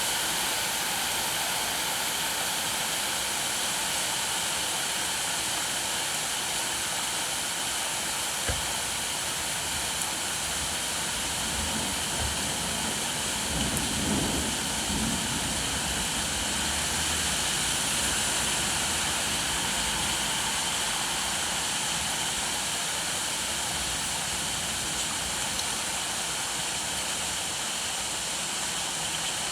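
Steady, continuous rainfall. A single sharp knock comes about a third of the way in, and a low rumble swells and fades around the middle.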